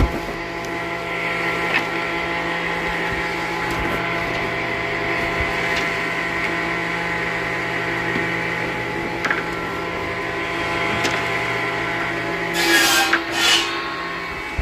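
Woodworking machinery running steadily with a constant motor hum, with a few light clicks and two short, louder bursts of noise near the end.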